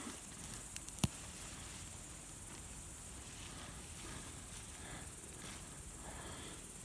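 Faint outdoor ambience: a steady high buzz of insects such as crickets or grasshoppers, with a single sharp click about a second in.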